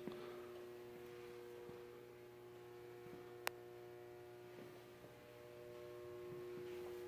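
Faint steady electrical hum, with a single sharp click about three and a half seconds in.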